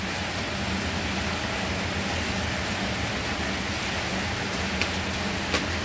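Rain falling steadily, an even hiss with no break, with a couple of faint short clicks near the end.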